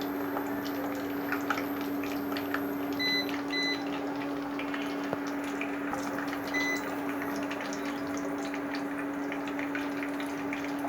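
Breadcrumb-coated chicken cheese rolls shallow-frying in oil: a steady sizzle with scattered small crackles. A steady low hum runs under it, and short high beeps sound twice around 3 s and once at about 6.5 s.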